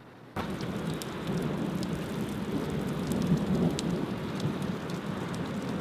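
Rain falling steadily during a thunderstorm, with a low rumble of thunder underneath and scattered drop ticks. It starts abruptly about a third of a second in.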